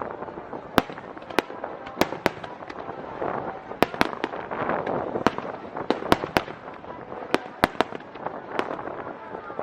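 Aerial fireworks going off: a rapid, irregular string of sharp bangs and crackles, about twenty in under ten seconds.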